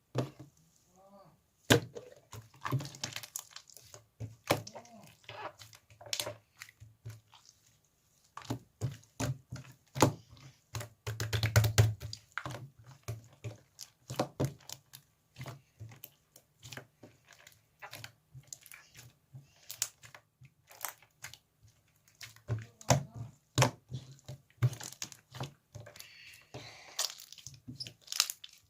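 Slime being squeezed, stretched and poked by hand: an irregular run of sticky pops and clicks with soft squelching thuds.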